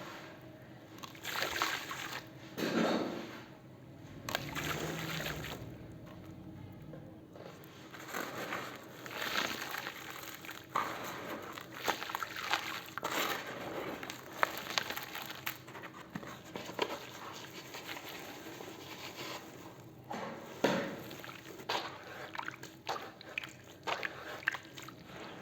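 Wet cement and concrete paste sloshing and splattering in water as it is poured and mixed, with irregular small wet clicks and a few louder splashes.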